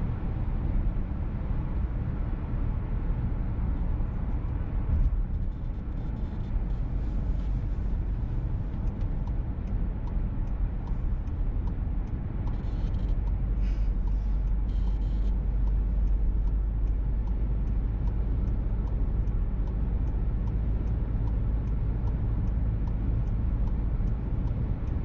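Cabin sound of a VW T-Roc petrol car driving: a steady low engine and road rumble. Through the latter part, a turn signal ticks at an even pace.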